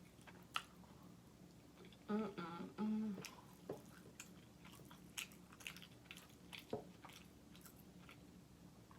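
Close-miked mouth sounds of a woman eating: wet chewing with scattered clicks and smacks. About two seconds in she gives a short pitched 'mmm' of enjoyment.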